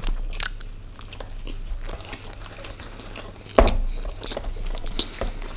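Close-miked chewing and biting of pizza and stuffed garlic bread, with wet mouth sounds and small crunches at an irregular pace. A louder thump comes about three and a half seconds in.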